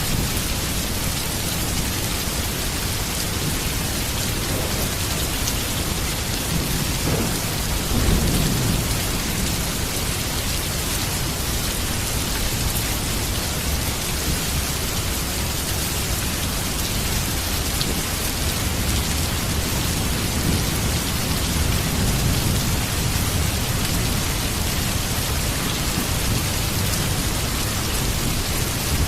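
Heavy rain falling steadily, with a low rumble of thunder swelling about eight seconds in and another, weaker roll of thunder about three quarters of the way through.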